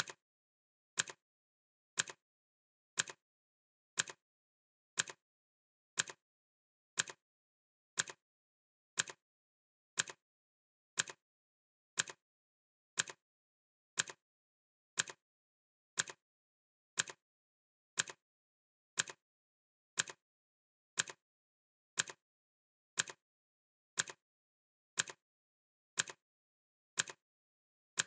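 Clock-ticking sound effect: short, sharp ticks at a steady one per second, with silence between.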